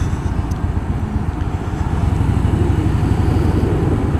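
Stock Harley-Davidson Softail Fat Boy's 103 cubic-inch V-twin running at low revs in stop-and-go traffic, a steady, rapid, deep pulsing that grows slightly louder about halfway through.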